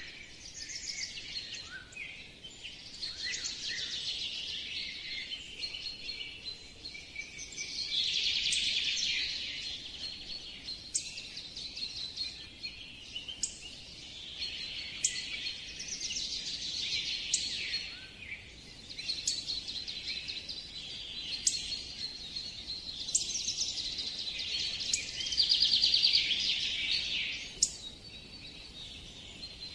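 Birds chirping and singing in a steady chorus of rapid trills and short, sharp high chirps, loudest about eight seconds in and again near the end.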